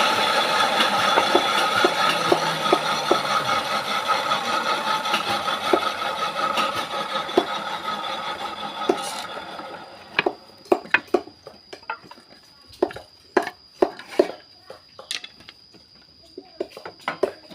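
Electric Maktec wood-cutting power tool running with a steady whir that slowly fades and cuts off about nine seconds in, followed by scattered knocks and taps.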